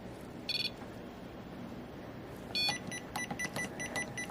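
Small electronic ghost-hunting gadget beeping. There is a short high chirp about half a second in and another a little past halfway, then a rapid run of short beeps.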